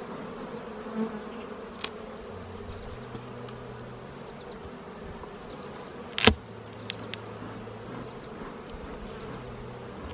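A swarm of honeybees buzzing steadily around an open hive, with individual bees droning past closer at a lower pitch. A sharp click comes about two seconds in, and a louder one about six seconds in.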